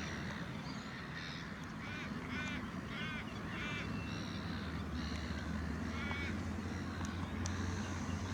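Birds calling: a run of short, harsh, arched calls, four in quick succession a couple of seconds in and another a few seconds later, over a steady low background rumble.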